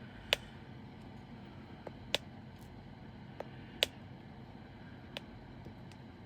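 Diamond painting drill pen tapping resin drills onto the canvas: sharp single clicks, three louder ones about a second and a half apart with fainter taps between, over a steady low hiss.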